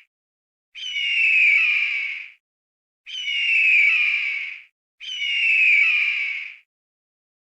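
A bird's harsh squawking call, given three times with short silences between, each call about a second and a half long and sliding slightly downward in pitch.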